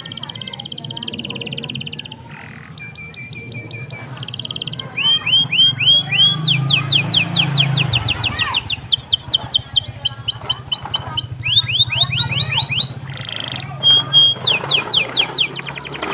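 Canary singing a long, loud song of rapid trills: runs of quickly repeated notes, some held on one pitch and others fast rising sweeps, switching to a new trill every second or two. A low steady hum runs underneath.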